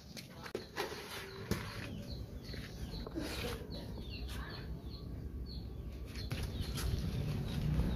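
Small birds chirping in a quick run of short falling notes, over scattered scrapes and knocks of soil being scooped and packed into a pot with a hand tool.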